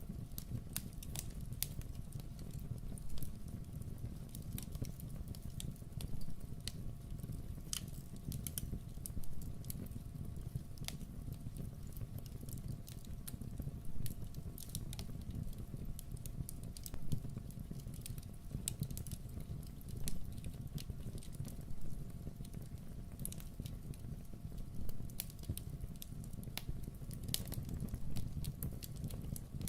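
Wood fire crackling in a fireplace: many sharp pops and snaps, a few louder ones every couple of seconds, over a steady low rumble.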